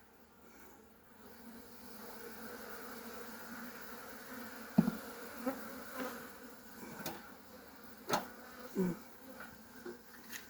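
Honeybees buzzing steadily around an open hive, swelling a little after the first second or two. In the second half, a series of sharp wooden knocks and bumps, the loudest about five seconds in, as a frame is set down into the hive box.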